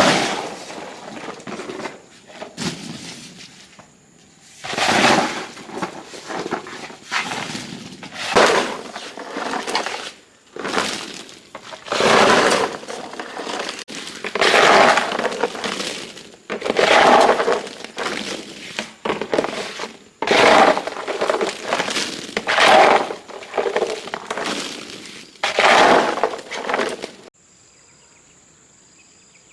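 A series of loud, rough noise bursts, about one every one and a half to two seconds and each under a second long. They stop suddenly near the end, leaving a faint steady high whine and insects.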